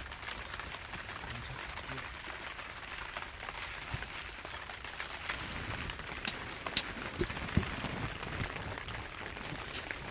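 Steady rain falling, with scattered louder drops striking a surface, a few of them sharper in the second half.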